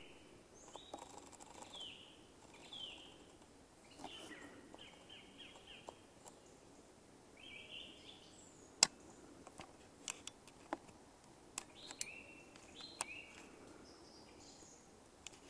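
Small woodland birds calling, with short chirping and slurred notes repeated over a faint steady background hiss. Several sharp clicks cut through; the loudest comes a little under nine seconds in.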